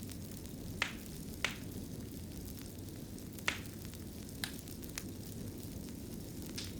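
Wood fire crackling in a fireplace: a steady low rumble with six sharp pops at uneven intervals.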